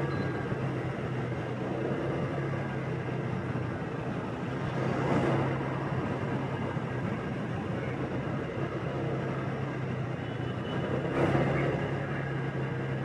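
Motorbike ride: the bike's engine runs at a steady low hum under wind and road noise. Two other vehicles pass close by, about five seconds and about eleven seconds in.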